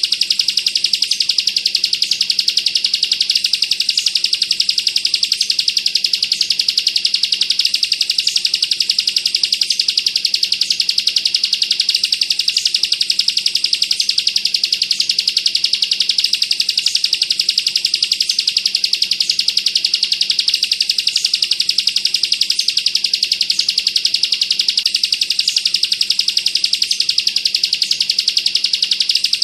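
Bar-winged prinia (ciblek) singing a rapid, unbroken high-pitched trill, the machine-gun-like 'bren' song that bird keepers use as training audio.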